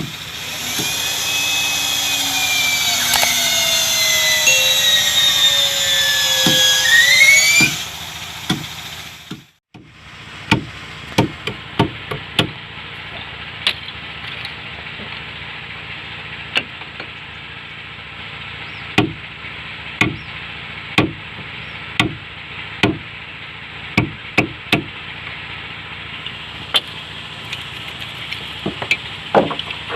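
A power tool whines for about eight seconds, its pitch sagging as it is loaded and rising again as it is eased off. After a brief break, a hammer knocks on wood in irregular blows, roughly one a second, over a steady low hum.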